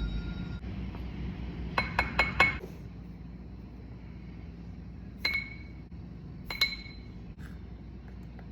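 A spoon clinking against a cup while the mug brownie's ingredients are measured in. There is a quick run of four clinks about two seconds in, then two single clinks later.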